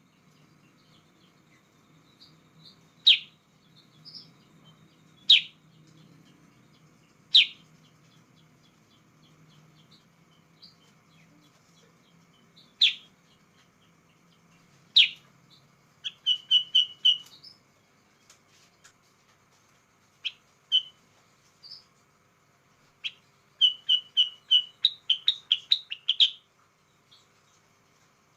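Sooty-headed bulbul (kutilang sutra) calling: sharp single notes every two to five seconds, then two quick runs of rapid chirps, one about 16 seconds in and a longer one near the end.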